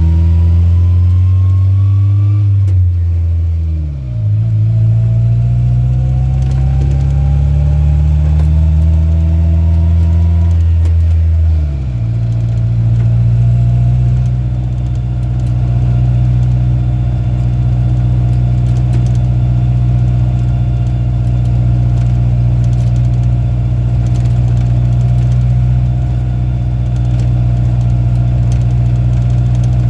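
Rat rod farm truck's engine pulling up through the gears: the revs climb, drop at a shift about four seconds in, climb again, drop at a second shift about twelve seconds in, then hold steady at cruising speed.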